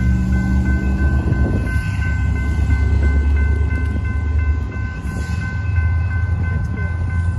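A freight train rolling slowly through a grade crossing, with a steady low rumble, while the crossing signal bell rings about two to three times a second.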